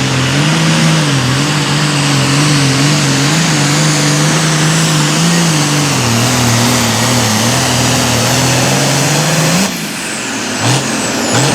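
Super Farm class pulling tractor's diesel engine running flat out under load, its pitch wavering slightly. The throttle is cut suddenly near the end, followed by two short revs.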